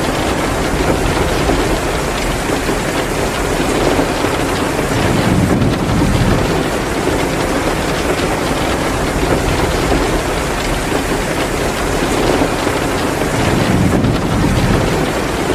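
Heavy, steady rain mixed with the crackle of a wood fire in a fireplace. The sound swells louder twice.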